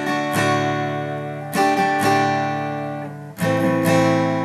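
Acoustic guitar strumming a D chord in the song's rhythm: strokes come in quick pairs about every second and a half, and the chord is left ringing and fading between them.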